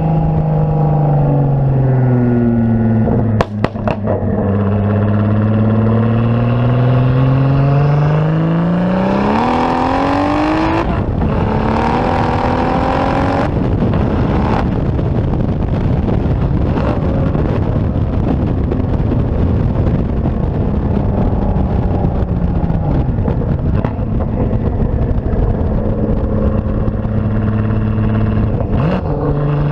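Turbocharged 3.2 L VR6 engine of a 2004 Volkswagen R32, through a catless downpipe and cat-back exhaust, under way. Its pitch sinks, then climbs hard under acceleration, breaks off sharply, climbs again and drops suddenly, as at gear changes. It then settles into a steady drone.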